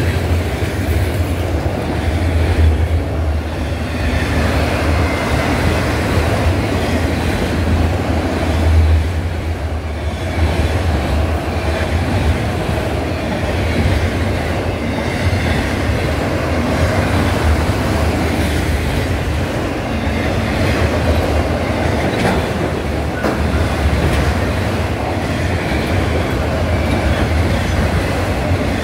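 Freight train cars, mostly multilevel autoracks, rolling past at a grade crossing: a steady rumble and clatter of steel wheels on the rails.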